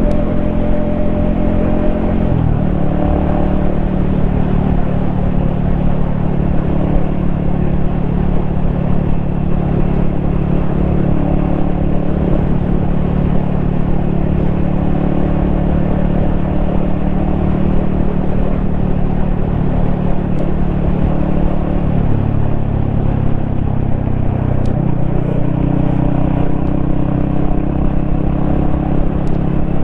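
Yamaha XSR155's single-cylinder engine running at a steady cruise, heard from the rider's helmet over wind rush. The engine note drops about two seconds in, holds steady for a long stretch, dips again near the end and then picks back up.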